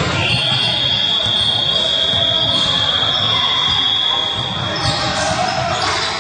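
A single steady high-pitched buzzer tone sounding for about four and a half seconds over the hubbub of a basketball game in a gym, with a ball bouncing.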